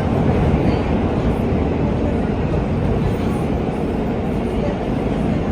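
New York City subway R train running between stations, heard from inside the car: a steady, loud noise of steel wheels on the rails.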